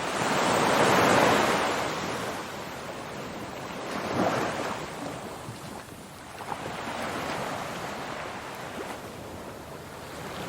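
Ocean waves surging and receding in slow swells, loudest about a second in, with further surges around four and seven seconds in.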